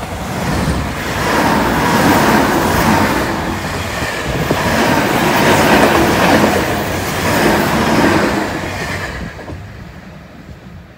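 An electric train passing close by, its wheels rumbling and clattering on the rails. The sound builds over the first couple of seconds, stays loudest through the middle and fades away over the last few seconds.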